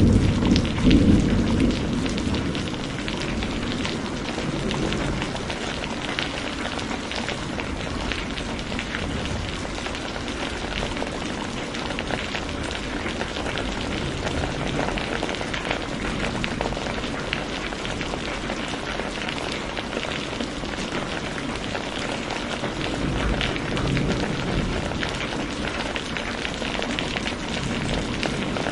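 Steady rain falling and pattering, with a roll of thunder dying away in the first couple of seconds and a faint low rumble of thunder again near the end.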